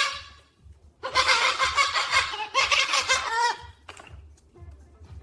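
Loud cackling laughter, starting about a second in and lasting about two and a half seconds.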